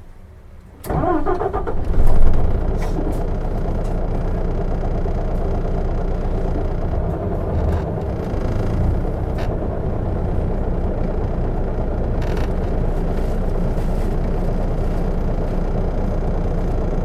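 Isuzu Erga city bus's inline-six diesel starting up: about a second in the starter cranks briefly with a rising whine, the engine catches with a surge, then it idles steadily.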